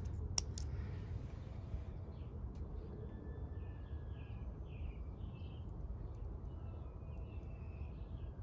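Outdoor ambience: a steady low background rumble, with a small bird chirping over and over from about three seconds in.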